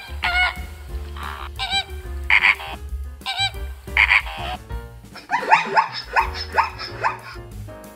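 Flamingos honking, a series of short nasal calls. About five seconds in they give way to a zebra's rapid run of barking calls, over background music.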